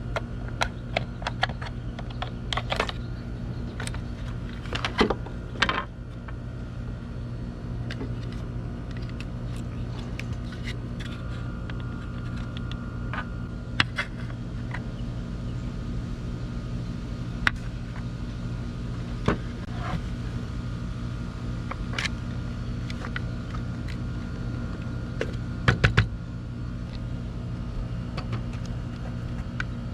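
Scattered clicks, clinks and knocks of small parts and tools being handled, as a Homelite string trimmer head is taken apart, over a steady low hum.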